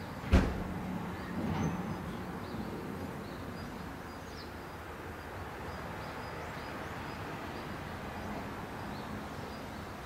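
Faint, high, short bird chirps scattered throughout over steady outdoor background noise. A sharp knock comes just after the start, and a brief louder sound about a second and a half in.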